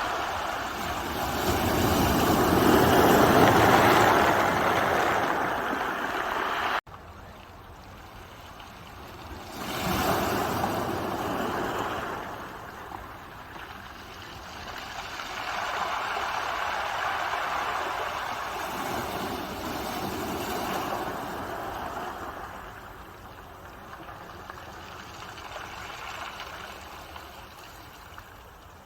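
Ocean waves breaking and washing up the shore in slow surges a few seconds apart. A loud wave cuts off abruptly about seven seconds in, and softer waves follow.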